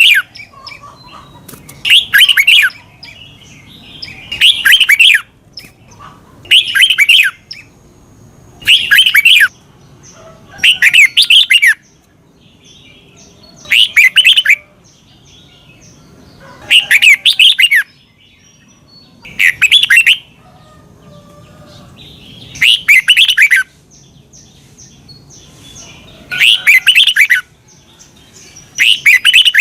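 Red-whiskered bulbul singing: short, loud, bubbling phrases under a second long, repeated about every two to three seconds.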